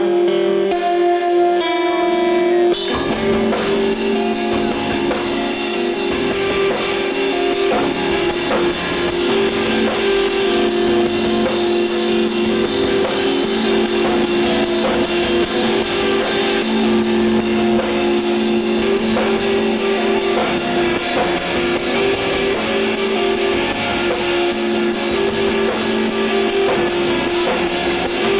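Live rock band playing: electric guitar notes ring out alone, then the drums and the full band come in about three seconds in and drive on with a steady, fast beat.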